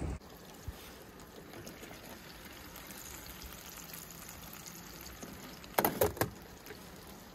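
Faint steady sound of liquid, with a short clatter of a few knocks about six seconds in.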